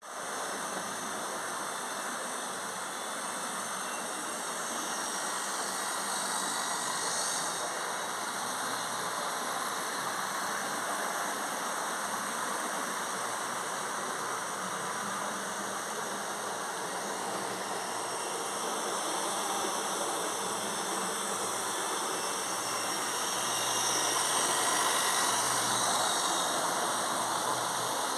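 Model train running on its track: a steady whirring rumble of wheels on rails and the small electric motor, growing a little louder near the end.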